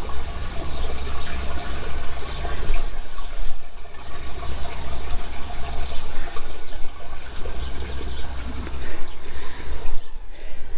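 Water from a flushed downstairs toilet running down the soil stack and through the drain in a continuous flow. The water passes freely, a sign that the blockage has been cleared.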